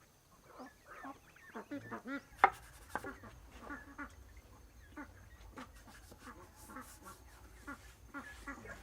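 Farm poultry calling over and over in short, quick notes, with one sharp knock about two and a half seconds in.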